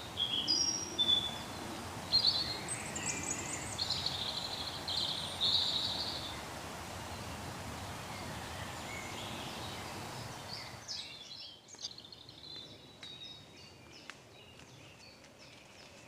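Woodland birdsong: several birds singing and calling over a steady background hiss. The hiss drops away about eleven seconds in, leaving fainter chirps and a few light ticks.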